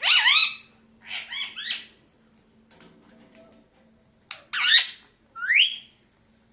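Pet parakeet giving harsh squawking calls: two close together at the start, then a pause, then two more, the last one rising in pitch.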